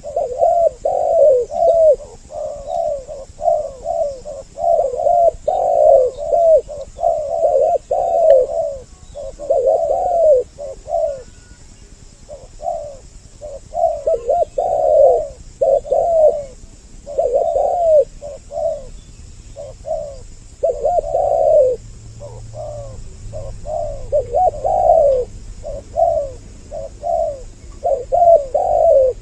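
Spotted doves (tekukur) cooing, two birds with overlapping, repeated phrases of quick notes and short pauses between bouts. It is a male-and-female double-voice lure call used to draw doves in.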